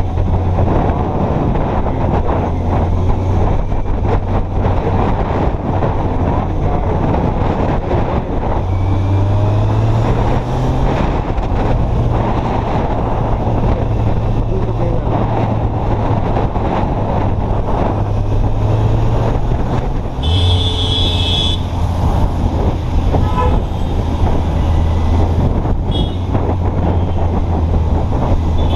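Kawasaki Z800's inline-four engine running at low, steady revs that rise and fall slightly as the bike rolls through slow traffic, with road and wind noise. A vehicle horn honks once for about a second, about two-thirds of the way in.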